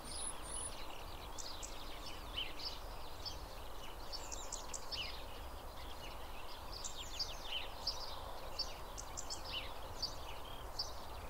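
Many small birds chirping and calling over a steady low background noise.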